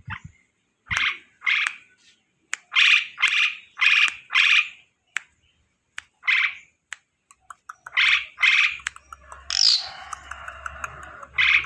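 Asian pied starling (jalak suren) singing: a string of loud, separate chattering phrases of about half a second each, then near the end a denser jumbled run of twittering with a high swooping note, closed by one more loud phrase.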